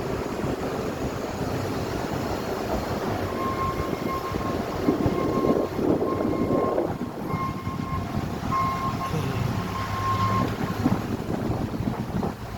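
Street traffic rumbling steadily, with a thin high whine that sounds on and off from about three seconds in until near the end.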